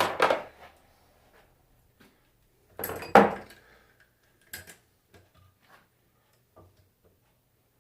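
Metal clunks and clinks of alternator parts being handled and set into a bench vise: a few knocks, the loudest about three seconds in, with lighter clicks between.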